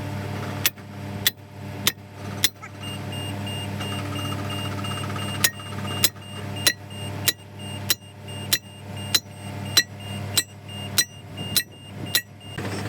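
Hammer blows ringing on steel, about one every 0.6 s: four strikes, a pause, then a run of about a dozen more, over a steady engine hum. A faint rapid beeping tone sounds during the second run of blows.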